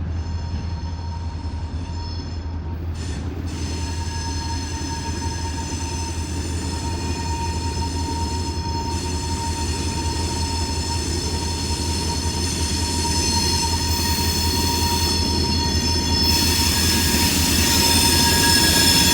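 Camp Chase Railway train rolling by with a steady low locomotive rumble and a sustained high-pitched squeal of steel wheels on the rails, slowly growing louder.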